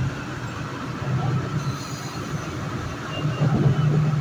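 Metro-North commuter train running along the track, heard from inside the lead car: a steady low rumble of wheels on rail, with a faint brief high squeal about halfway through.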